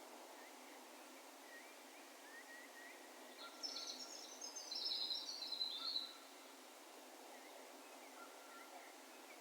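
A small bird sings a high, twittering phrase of about two and a half seconds, starting about three and a half seconds in and falling in pitch towards its end. Fainter, more distant bird chirps come before it over a quiet, steady open-air hiss.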